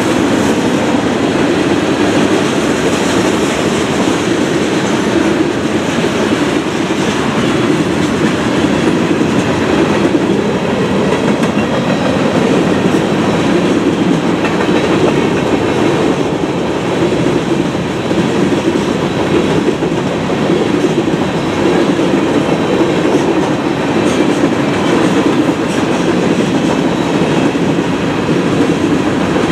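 Railroad cars rolling past at track side: a steady rumble of steel wheels on rail with a clickety-clack clatter.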